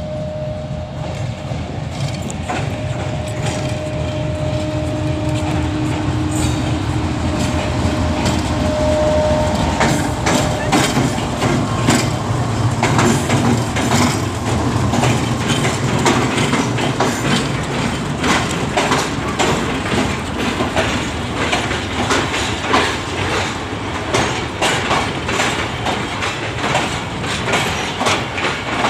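Pakistan Railways express train running through the station: a low locomotive rumble with a steady tone over it for the first ten seconds or so, then a long run of clickety-clack as the coach wheels go over the rail joints.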